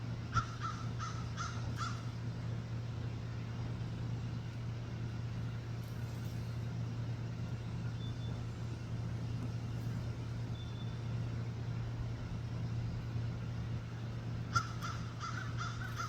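Two runs of about five short, repeated animal calls, one near the start and one near the end, over a steady low hum.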